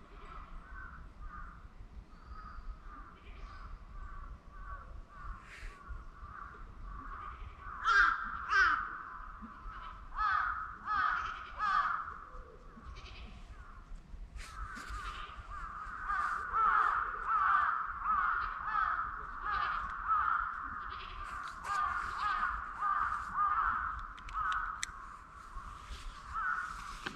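Crows cawing over and over in runs of short calls, loudest about eight seconds in and again in a long busy stretch from about fifteen seconds in.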